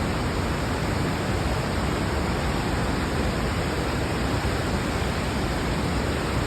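Steady rushing of the water at Lodh waterfall, an even unbroken noise heavy in the low end.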